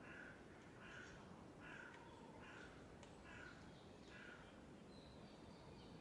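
Faint bird calls: six short, harsh calls in an even series, about one every three-quarters of a second, followed near the end by a thin high note.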